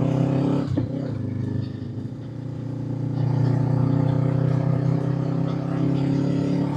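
Honda 500 parallel-twin motorcycle engine running under way with wind noise. It eases off about a second in, then pulls again and holds steady.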